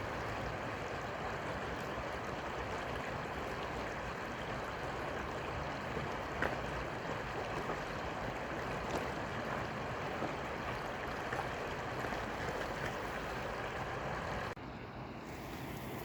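Steady rushing of river water with a few faint clicks, cut off abruptly near the end.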